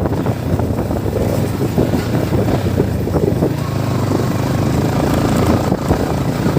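Yamaha MT-15 motorcycle engine running steadily while riding.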